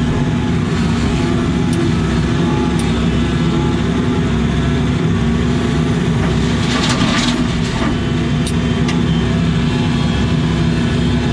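Case CX80 excavator's diesel engine running steadily as the machine works, with a brief rattle about seven seconds in.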